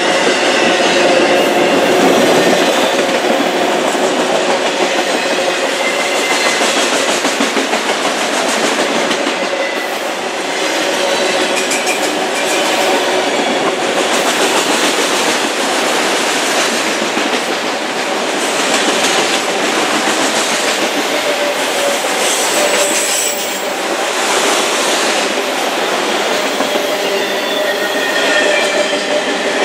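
Freight train of autorack cars rolling past close by: a loud, steady rumble of steel wheels on rail with clacking over the rail joints and a thin steady whine of wheel squeal on top.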